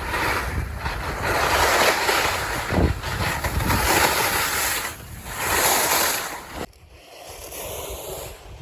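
Skis sliding and scraping over snow, with wind rushing on the microphone, rising and falling in several swells before dropping off sharply about seven seconds in.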